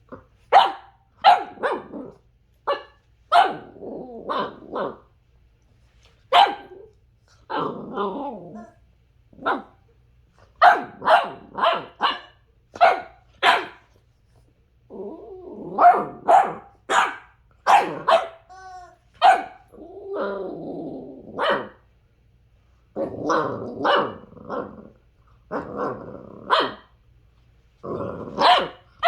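Boxer puppy play-barking in short, sharp barks in uneven bursts, with stretches of low growling between them.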